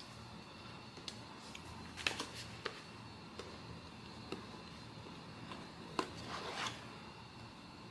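Handling of blind-box packaging and cards: scattered light clicks and taps, with a short rustle about six seconds in, over a steady faint room hum.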